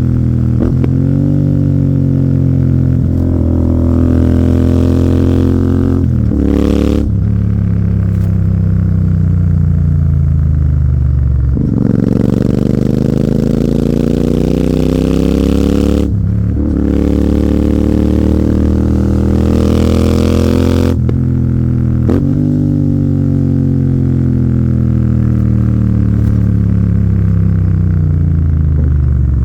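Royal Enfield Continental GT 650's parallel-twin engine through an AEW 103 aftermarket exhaust, pulling up through the revs in several runs, each broken off by a short gap as the gear changes. In between, the engine note falls away as the bike slows.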